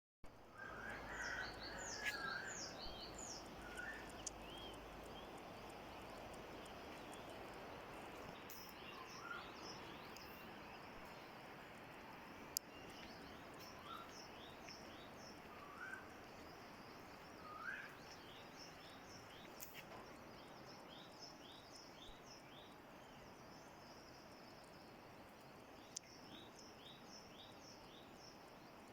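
Wild birds chirping: repeated runs of quick, high, falling notes, with a few lower single whistled notes, over a faint steady background hiss.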